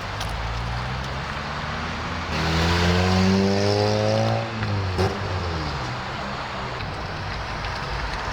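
Car engines and exhausts running. About two seconds in, a louder engine comes in with its pitch rising a little, then it falls away about four and a half seconds in, followed by a sharp crack about five seconds in.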